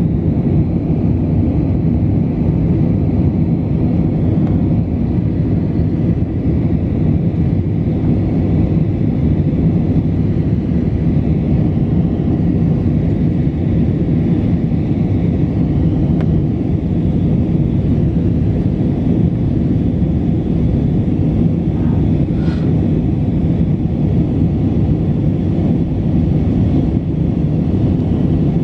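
Steady low rumble of an Airbus A319 airliner's engines and airflow, heard from inside the passenger cabin.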